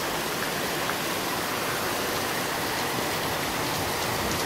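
Very heavy rain pouring down in a steady, dense hiss, with a few faint drop ticks.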